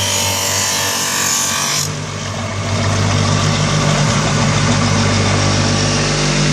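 A machine's motor running steadily with a low hum. A high grinding hiss over it cuts off abruptly about two seconds in.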